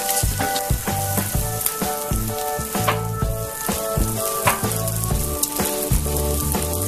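Mushroom-vegetable Korean pancakes sizzling steadily in hot oil in a frying pan, their second side browning after the flip. Background music with a steady bass line plays underneath.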